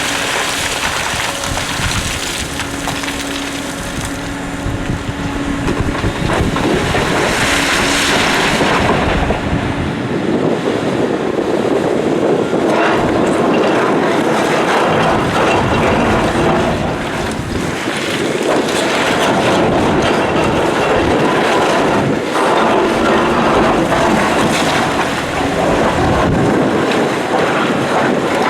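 Heavy quarry machinery working: the diesel engines of a Hitachi Zaxis 890LCR excavator and a CAT 775D quarry truck running, with wind buffeting the microphone.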